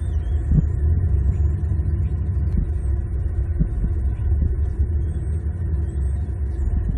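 Steady low rumble picked up by an outdoor nest-cam microphone, with a few soft knocks and faint high bird chirps over it.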